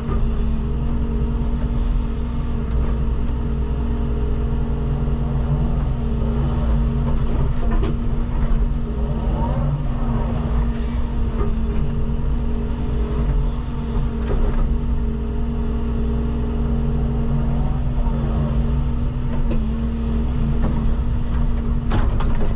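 Wheeled excavator's diesel engine running steadily under working load while loading soil, with its pitch rising and falling at times as the machine works.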